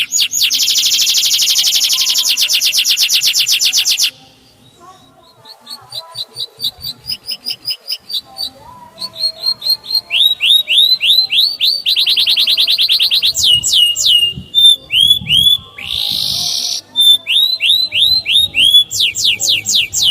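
Male canary singing: a loud, fast trill of repeated high notes, then after a short break strings of quick up-sweeping and down-sweeping chirps broken by more rapid rolls.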